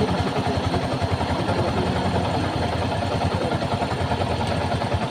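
Motorcycle engine running with a steady, rapid exhaust beat that holds an even pace.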